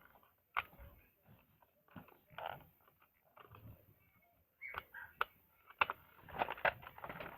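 Scattered light clicks and knocks of a plastic toy truck being handled, small parts clicking, with a couple of quiet gaps between.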